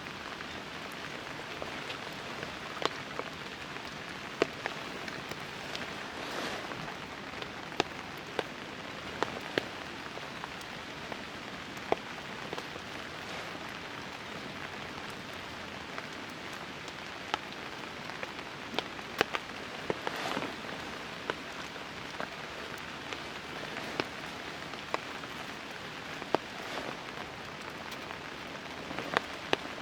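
Rain falling on a camp tarp: a steady hiss with scattered sharp drops hitting close by, one every second or so.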